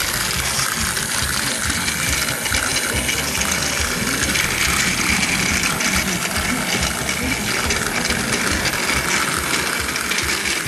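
Plarail Percy toy train running: its small battery motor and plastic gearbox whirring steadily, with the rattle of the wheels on plastic track.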